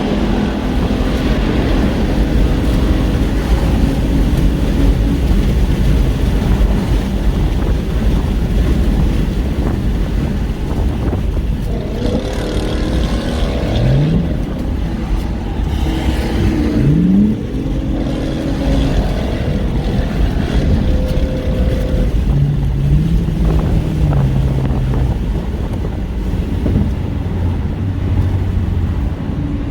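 A car driving in traffic: steady engine and road noise, with two short rising revs about 14 and 17 seconds in.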